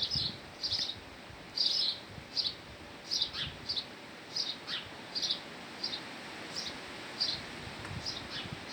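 Small bird chirping over and over: short, high chirps, some dropping quickly in pitch, about one or two a second, thinning out near the end.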